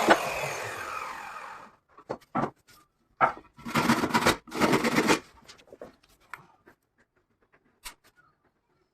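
A power drill spins down and stops, its pitch falling as it fades. Then come short scraping and rubbing sounds of wood and hardware being handled, with a few light knocks.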